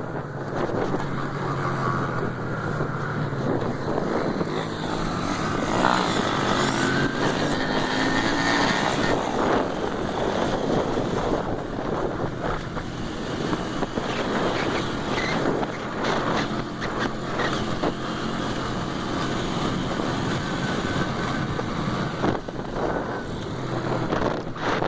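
Motorcycle engines running, mixed with wind noise on the microphone; an engine's pitch rises for a few seconds about a quarter of the way in.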